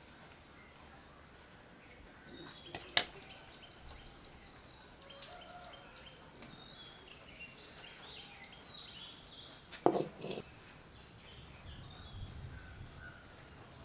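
Birds chirping in the background, many short calls throughout, with two sharp taps, about three seconds and ten seconds in.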